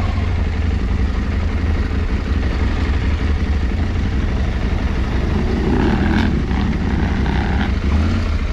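Parallel-twin adventure motorcycle running steadily as it rides along, with a constant low rumble.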